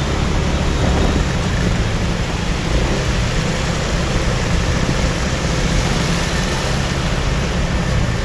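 Motorcycle ride: steady wind rumble on the microphone over the motorbike's engine and surrounding road traffic.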